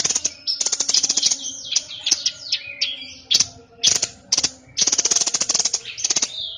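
A songbird of the kind kept in Indonesia as 'burung sniper' singing hard, in fast rattling trills of about a second each, broken by shorter sliding whistled notes.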